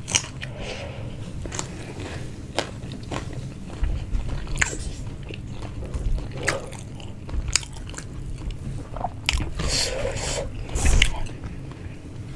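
Close-up eating sounds: chewing and biting into chicken, with scattered short clicks and smacks and a few low thumps.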